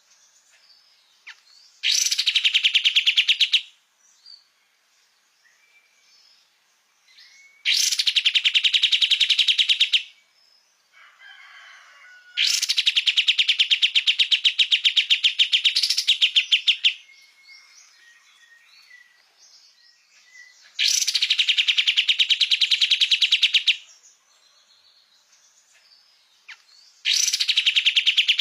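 Kapas tembak songbird singing in bursts of very fast, evenly repeated chattering notes. There are five trills in all, each two to four seconds long and a few seconds apart, with faint short calls in between.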